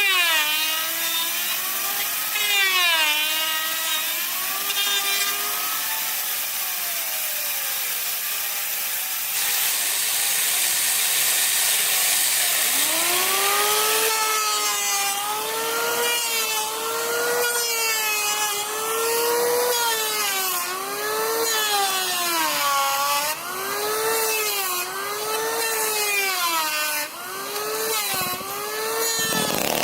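A handsaw cutting through wood with steady back-and-forth strokes, about one a second, the blade's ringing pitch rising and falling with each stroke.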